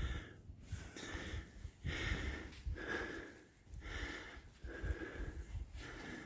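A man breathing hard after climbing on foot: he is out of breath, with heavy breaths about one a second.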